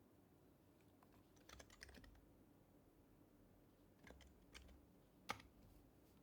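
Sparse, faint typing on an HHKB Professional HYBRID Type-S keyboard's silenced Topre capacitive keys: a short flurry of keystrokes near two seconds in, a few more around four seconds, and one sharper keystroke just past five seconds.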